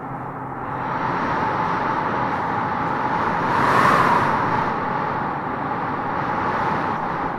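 Strong wind blowing through trees: a steady rushing haze that builds to a louder gust about four seconds in, then eases back.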